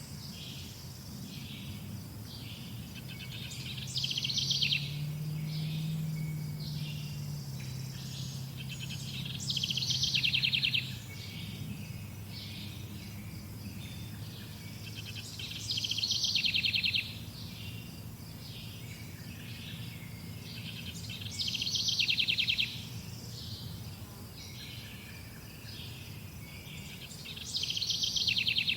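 A songbird repeating the same short, rapidly trilled song about every six seconds, with softer chirps between the songs, over a steady low background hum.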